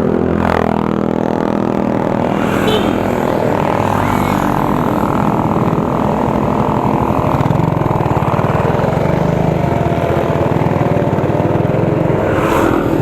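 Motor vehicle engine running steadily, its pitch shifting slightly, with a falling whine about half a second in.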